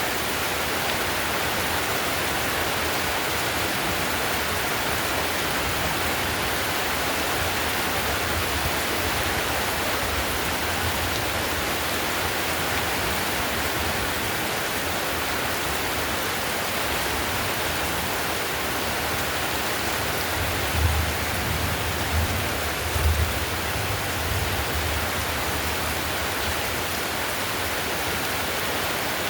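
Heavy rain falling steadily on a clay tile roof, a dense, even hiss of drops. A few low thuds come briefly about two-thirds of the way through.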